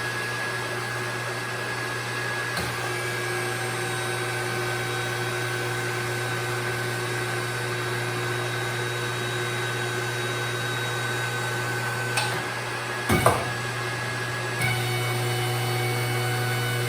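Electric motor of a JD Squared tube bender's hydraulic power unit running steadily while bending 2-inch tube. There is a metallic knock about thirteen seconds in, and the motor gets a little louder just after.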